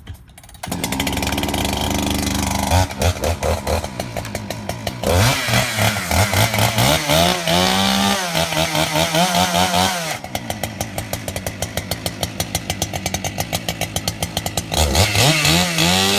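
Husqvarna 396 two-stroke chainsaw running and being revved repeatedly, with its pitch surging up and down and held at full throttle for a couple of seconds in the middle.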